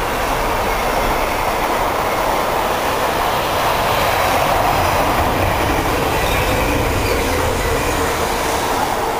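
A Freightliner freight train passing at speed: a loud, steady roar of wheels on rail, with a faint ringing tone running through it.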